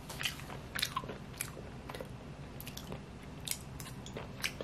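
A person chewing chewy stir-fried dried eggplant, with scattered short, wet mouth clicks.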